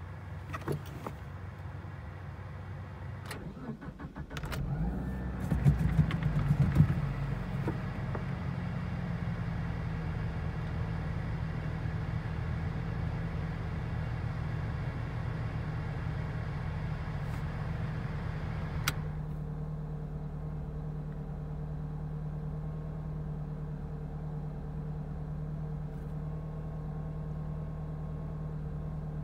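1990 Eagle Talon TSi's turbocharged 2.0-litre four-cylinder cold-started: a few clicks, then the engine catches about four seconds in and flares in revs. It settles into a steady fast idle. A click comes about two-thirds of the way through, after which the idle runs a little quieter.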